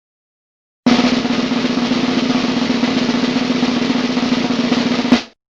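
Snare drum roll, fast and even, lasting about four seconds and ending on a single sharp accent hit before cutting off.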